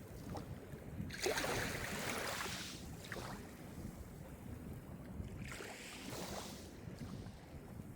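Small Mediterranean waves breaking and washing on the shore. A louder wash rises about a second in and another comes at about five and a half seconds, over a steady low rumble of the sea.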